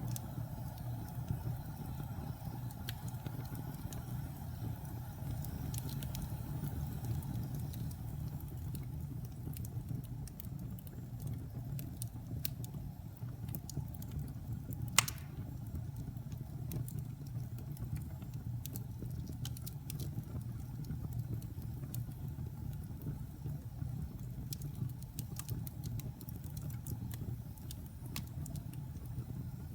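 Wood fire burning in a fireplace: a low steady rumble of flames with scattered small crackles and one sharp pop about halfway through.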